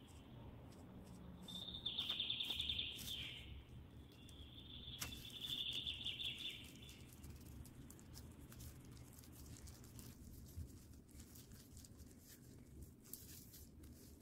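Faint chirping trills, like a small bird's, twice: once about two seconds in and again for about two seconds from five seconds in. A few faint light clicks and rustles follow.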